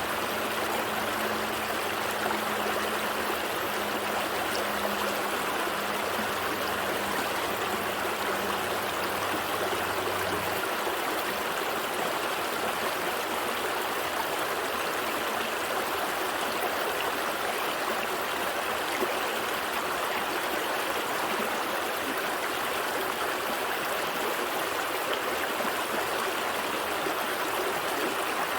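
Gentle stream flowing steadily, a continuous rushing, burbling water sound. A faint low hum sits underneath and stops about ten seconds in.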